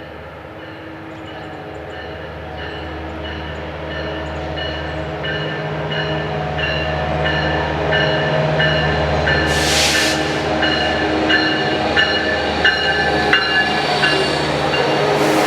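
Metrolink passenger train approaching, its diesel locomotive running with a steady hum that grows louder. A bell rings about twice a second, and there are two short hisses of air near the end.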